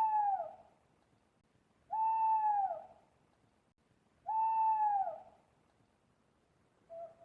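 Owl hooting: drawn-out hoots of about a second each, repeated roughly every two seconds, each one sliding down in pitch at its end.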